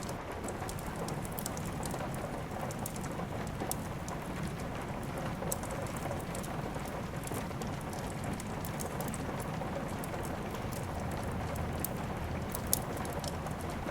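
Steady rain with a wood fire crackling: scattered sharp pops over the even hiss of the rain, one louder pop near the end.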